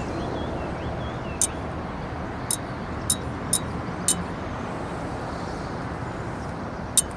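Wood fire crackling in a fire stand, with sharp, irregular pops, six or so spread through the few seconds, over a steady rushing background.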